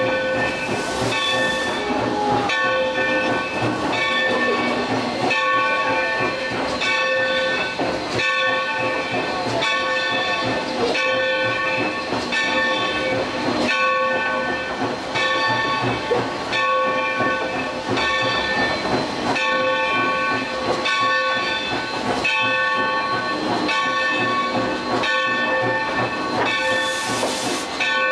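A train hauled by a 2-8-2 steam locomotive, with hissing steam and a steady multi-toned sound broken by short gaps about once a second. The hiss swells briefly about a second in and again near the end.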